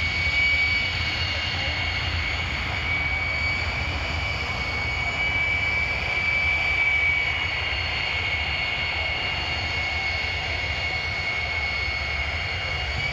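Jet engine of a jet-powered Kenworth semi truck running steadily while it lines up, not yet at full throttle: a high turbine whine over a low rumble.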